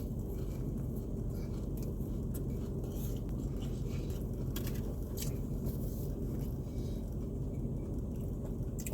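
Biting into and chewing a crispy fried chicken tender, with short soft crunches scattered through, over a steady low hum.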